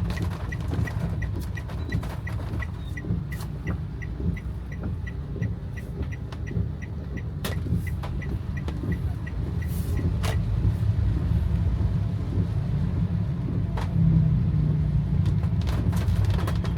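Inside a car driving in heavy rain: steady engine and road rumble with rain tapping on the roof and windshield. A regular, light high-pitched ticking of about four ticks a second runs along and stops about ten seconds in.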